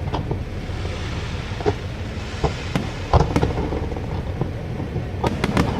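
Aerial fireworks going off: a steady low rumble with scattered bangs and crackles. The loudest bang comes a little past three seconds in, and a quick run of pops comes near the end.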